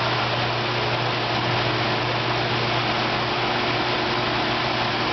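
Water-jug washing machine running: its 1 hp pumps hum steadily under the constant hiss of water jets spraying inside the machine.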